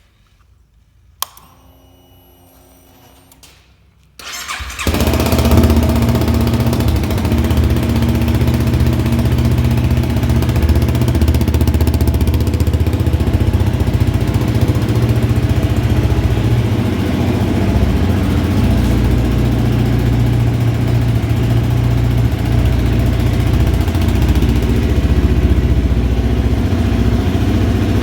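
Honda CBR250 motorcycle with an Akrapovic exhaust being started: a click and a faint steady whine for a few seconds, then the engine catches about four seconds in and idles steadily and loudly.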